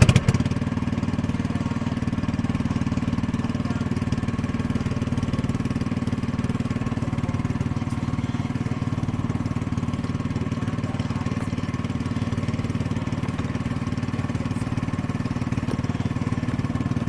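Boat engine running steadily at an even speed, with no change in pitch.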